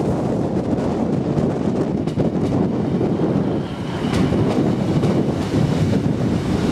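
Class 150 Sprinter diesel multiple unit rolling slowly past on arrival, its low rumble heavily mixed with wind buffeting the microphone. A faint high squeal comes in about four seconds in.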